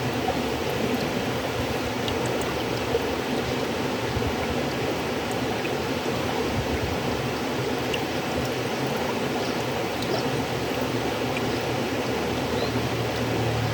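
River water flowing, a steady even rushing that holds one level throughout.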